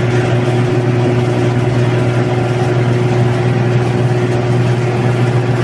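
Engine of a multipurpose grass-chopper machine running at a steady speed, a constant hum with no changes in pace.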